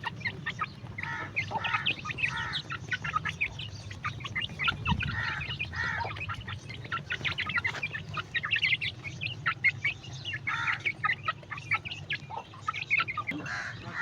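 A group of baby chicks peeping continuously in many short, high overlapping chirps, over a steady low hum.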